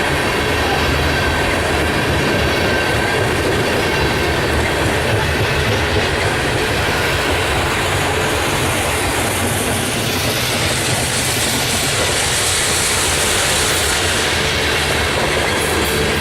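Freight cars of a BNSF grain train rolling past at speed, a steady rumble with wheels clicking over the rail joints and a little wheel squeal. A brighter hiss builds about two-thirds of the way through.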